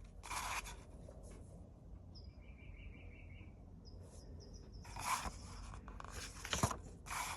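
Glossy magazine pages rustling and being turned in a few short bursts. A bird chirps faintly a few times in the middle.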